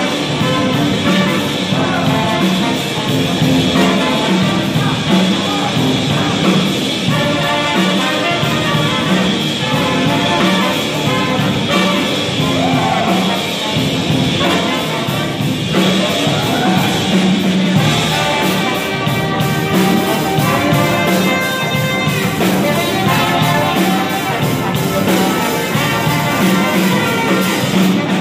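Brass band playing a tune, trumpets and saxophone carrying the melody over a steady low beat.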